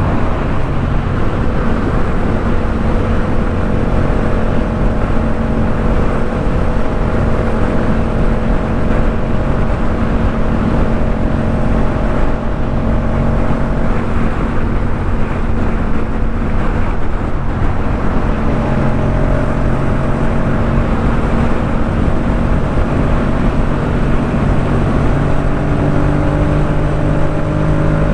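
Yamaha MT-07's parallel-twin engine running through a Jeskap K4 full exhaust while riding at a steady cruise, under constant wind noise. The engine note drops to a new steady pitch about two-thirds of the way in, then climbs slowly near the end.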